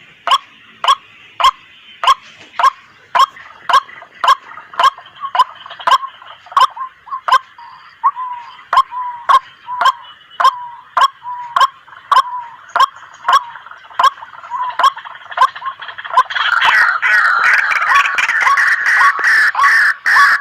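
White-breasted waterhen calling: a sharp note repeated about twice a second, each falling quickly in pitch. About sixteen seconds in, a louder, denser chattering joins and nearly drowns the steady notes.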